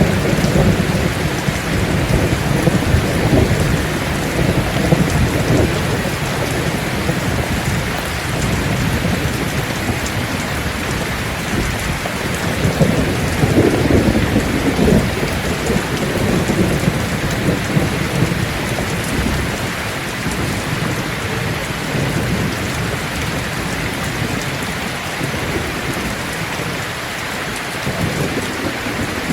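Steady heavy rain falling, with thunder rumbling low in the background; the rumbles swell near the start and again about halfway through, then die down.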